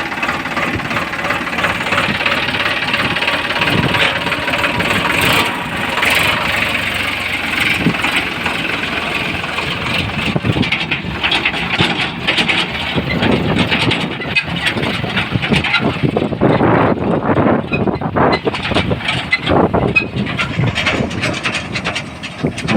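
Diesel engine of heavy machinery running under load, typical of a JCB 3DX backhoe loader working beside a tractor. From about halfway, irregular knocks and clatter ride over the engine noise.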